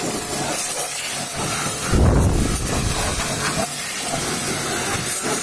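High-pressure washer jet spraying water onto a truck: a steady hiss, with a louder, lower rush about two seconds in.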